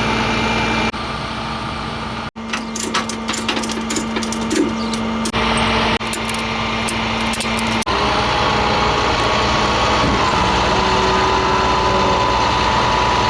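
A motor vehicle engine running steadily, heard in a few spliced clips. There is a run of clicking and rattling in the first half, and a steady whine over the engine in the second half.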